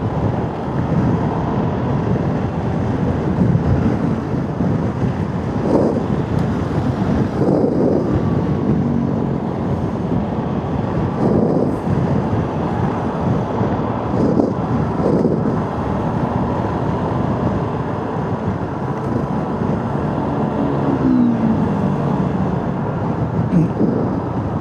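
Motorcycle on the move: the engine running under a steady rush of wind and road noise, its note rising and falling several times.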